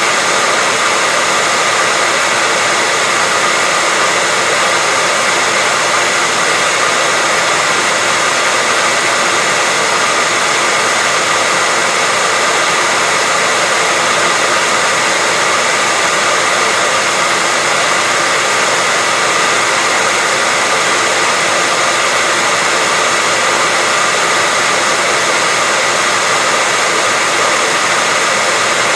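Hair dryer running continuously at a steady pitch: a loud, even blowing hiss with a faint high whine from its motor and fan.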